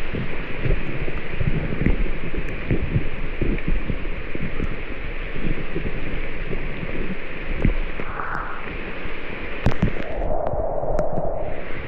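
Steady hiss of heavy rain, with frequent irregular low thumps and a few sharp ticks.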